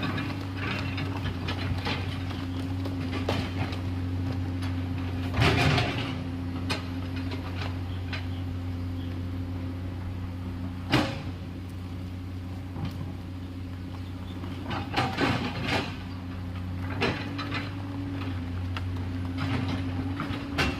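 Komatsu PC210LC excavator's diesel engine running steadily under work, with scattered knocks and clatters from the working machine: a loud rattling one about five seconds in, a sharp single knock about halfway, and a group of smaller ones later.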